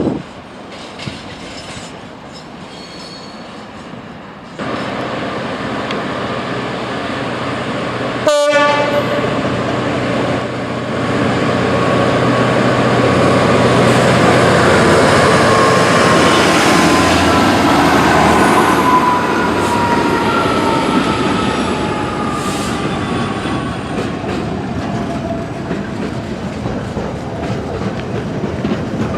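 A train passing on the line, its rumble building to a peak about halfway through and then easing off, with several tones slowly falling in pitch as it goes by.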